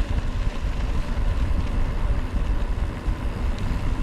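Strong wind buffeting a bike-mounted camera microphone during a mountain-bike descent: a loud, uneven low rumble with a steady rushing hiss above it.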